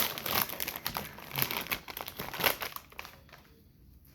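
A Doritos chip bag crinkling and crackling as it is handled and opened, dying down about three seconds in.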